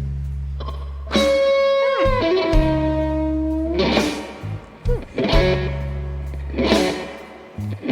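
Slow blues band playing: an electric guitar plays long sustained notes, bending the pitch of a note about two seconds in, over held bass notes and drum hits.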